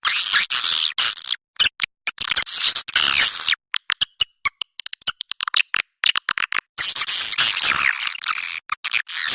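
A flock of swiftlets twittering in dense bursts of rapid high chirps, with short pauses between bursts. It is the kind of swiftlet call recording played to lure the birds into a nesting house.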